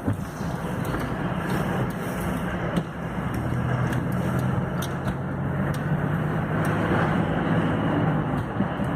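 Car engine running steadily with a low hum under a rushing noise.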